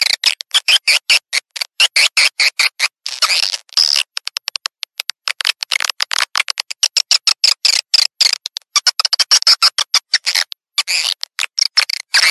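Edible-nest swiftlet calls: fast, dense chattering chirps and clicks in runs with brief gaps, a recorded call track used to lure swiftlets into a nesting house.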